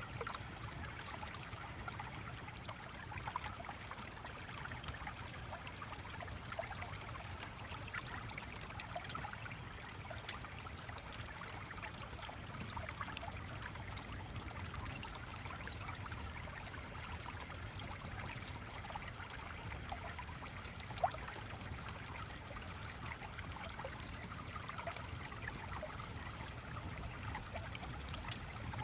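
Small stream flowing, a steady trickle of water with a single sharp click about two-thirds of the way through.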